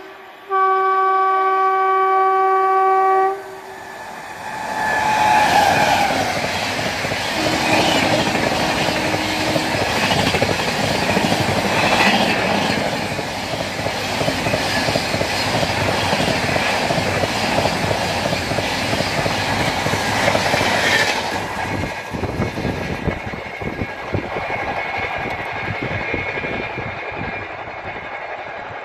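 Electric locomotive of an Indian Railways express sounding a long horn blast on approach. Then the high-speed train rushes past, a loud rush of wheels on rail and wind for about sixteen seconds. The rush cuts off sharply as the last coach clears, leaving a fading rumble.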